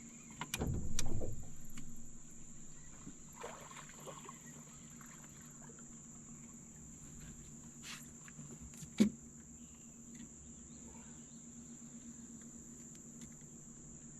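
Steady high-pitched insect buzz, like summer crickets or cicadas, over a low steady hum. About a second in comes a loud low rumbling bump, and near nine seconds a single sharp knock.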